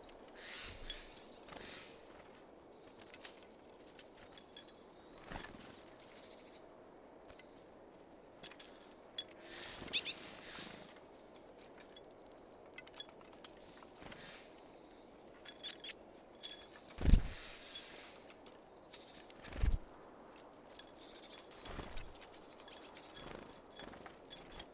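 Small wild birds at a feeder giving scattered short high chirps and calls, with light clicks between them. Several dull thumps break in, the loudest about two-thirds of the way through and another a few seconds later.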